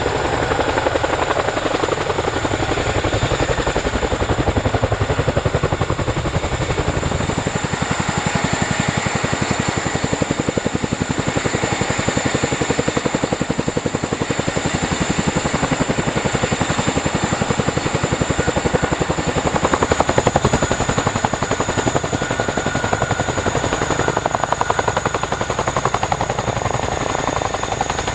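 CH-47 Chinook tandem-rotor helicopter running, its two rotors beating in a rapid, even pulse over a steady high turbine whine.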